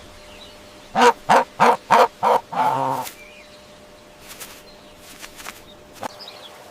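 Domestic poultry calling: five short, quick calls in a row, then one longer, drawn-out call.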